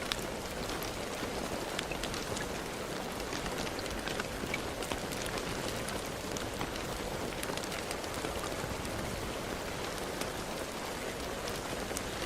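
Steady rainfall: a constant hiss of rain with many small, sharp drop hits scattered through it.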